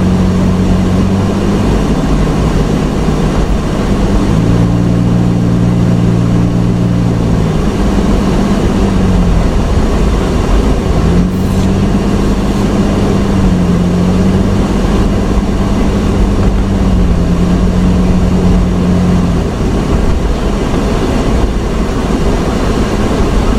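A motor vehicle's engine running while driving, its pitch stepping up and down several times, over a loud steady rushing noise.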